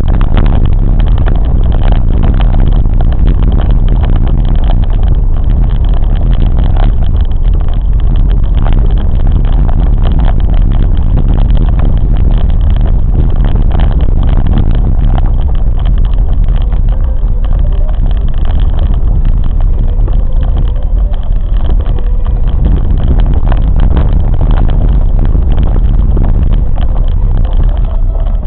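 Train running: a loud, steady rumble and rattle of the ride, with faint steady whining tones coming in during the second half.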